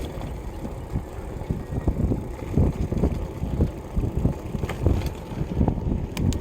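Wind buffeting the microphone while riding a bicycle: low, gusty rumble that swells and fades irregularly, with a few sharp knocks from the ride.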